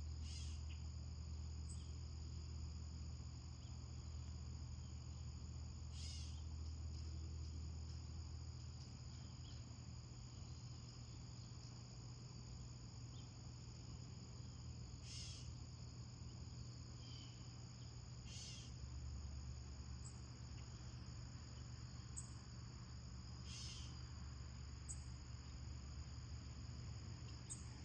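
Faint, steady chorus of crickets trilling high and continuously, with a low hum underneath and a few short ticks scattered through.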